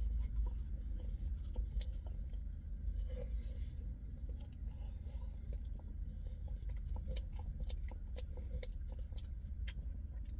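Close-up chewing of crispy breaded fried chicken in barbecue sauce, with irregular crunchy clicks over a steady low rumble.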